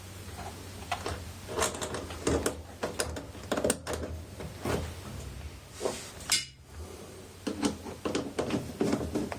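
Hands working on parts of a top-loading washing machine as it is reassembled: scattered clicks, taps and scraping of plastic and metal, with a louder knock about six seconds in.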